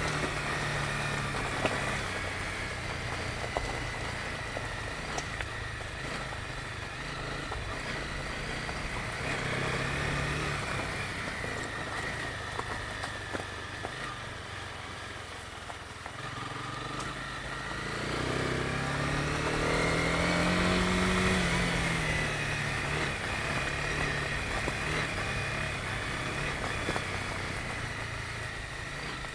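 Honda CB250R's single-cylinder engine running under way, its note falling and rising with the throttle. It revs up higher and louder about two-thirds of the way through, with a few brief clicks scattered throughout.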